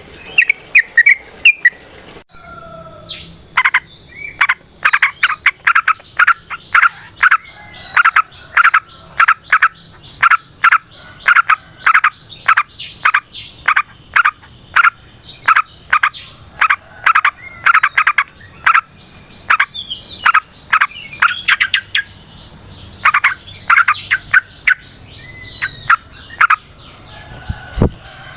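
Yellow-vented bulbul (trucukan) singing a long, fast chattering song of short bubbly notes, several a second, with short pauses near the start and again about three-quarters through.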